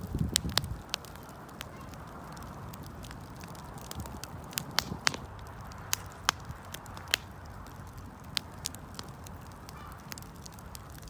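Wood fire burning, with sharp pops and crackles scattered irregularly over a steady hiss. A low rumble sounds in the first second.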